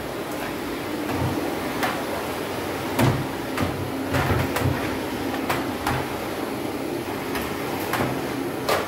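Vacuum cleaner running steadily, with a dozen or so sharp clicks and knocks as the nozzle bumps along.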